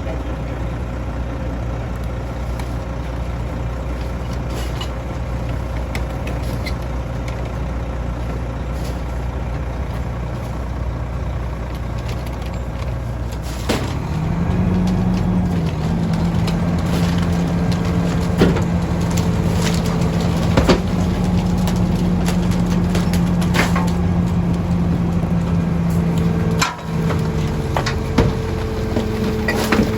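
Garbage truck's diesel engine idling, then about halfway through speeding up and holding a steady higher pitch. Several sharp metallic knocks and clanks are mixed in.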